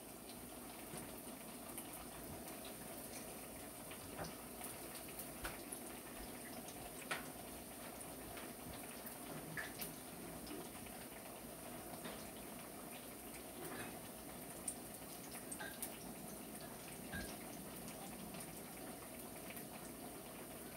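Ripe plantain frying gently in oil in a pan on a gas stove: a faint, steady low hiss with scattered small pops.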